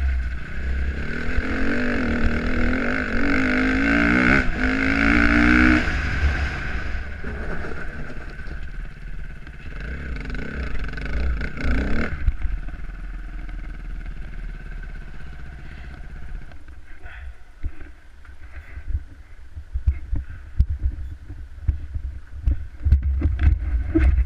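Dirt bike engine revving up and down, with wind rumbling on the microphone. The engine fades after about twelve seconds, leaving the wind and scattered knocks.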